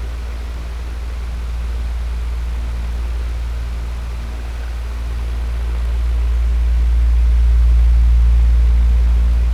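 Electric fan running steadily: a deep low hum with a faint airy hiss over it, its loudness slowly easing and swelling again, loudest near the end.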